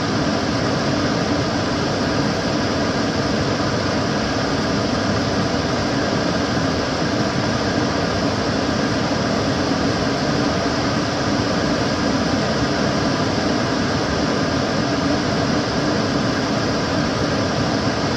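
Kitchen cooker hood extractor fan running steadily: an even rush of air with a low hum and no change in speed.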